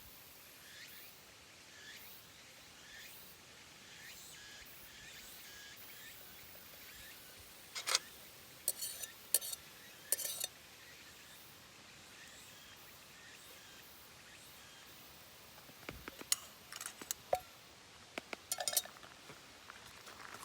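Light clinks of metal cutlery against a dish, in two short clusters, one about eight seconds in and another about sixteen seconds in, over a faint outdoor background.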